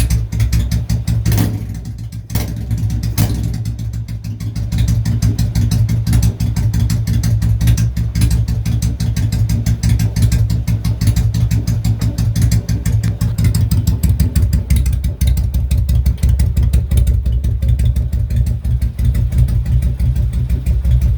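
Yamaha V Star 1100's air-cooled V-twin running through a Cobra Pro HP 2-into-1 exhaust, with a deep, steady exhaust note. The level drops for a couple of seconds early on, then the engine settles back to a steady run.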